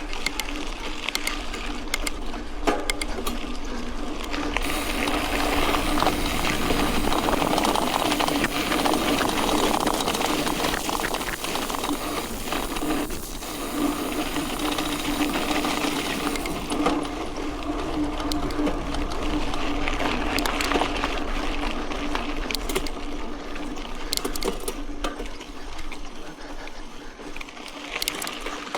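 Mountain bike riding on a dirt road: tyres running over gravel with a steady hum and scattered ticks and rattles from the bike. A louder hiss sets in about five seconds in and falls away after about twelve seconds.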